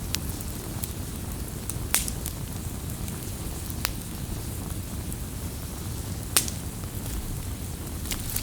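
Wood campfire burning: a steady low rush of flame with sharp pops from the burning wood, the loudest about two seconds in and again past six seconds, and fainter crackles in between.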